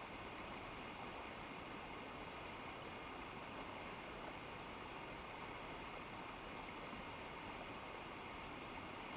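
Steady rush of a mountain river or cascade, an even noise with no breaks or single events.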